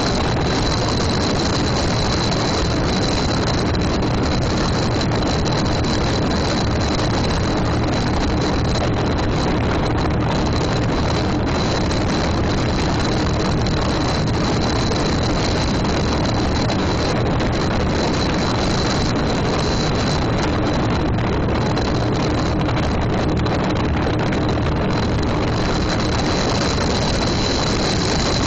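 Motorboat running steadily underway: an even, unchanging engine-and-rush noise with a faint steady hum.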